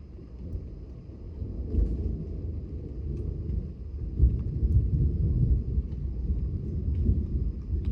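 Thunder rumbling from an approaching thunderstorm, swelling about two seconds in and rolling on for the rest of the time.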